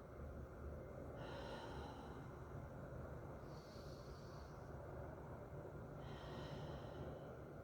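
Slow, deep breathing through the nose, faint and hissy, alternating in and out roughly every two and a half seconds while holding mountain pose.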